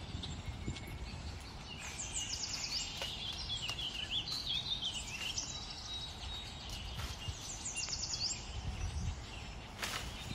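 Small birds chirping and singing in short, rapid trills, several times over, above a steady low background rumble. A sharp click is heard near the end.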